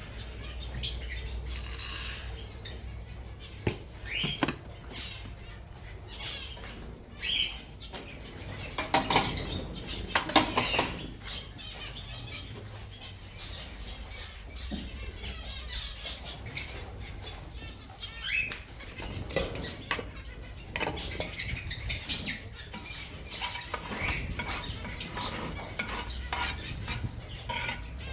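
Scattered clinks and rattles with wing flutters and a few short bird calls, as in a bird aviary.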